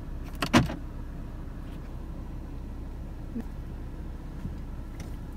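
A car engine idling, heard from inside the car as a steady low rumble. There is a brief loud thump about half a second in.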